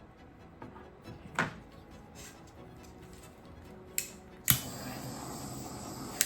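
Sharp clicks and small knocks of paint supplies being handled. About four and a half seconds in comes a louder click, then a steady hiss for under two seconds that stops with another click.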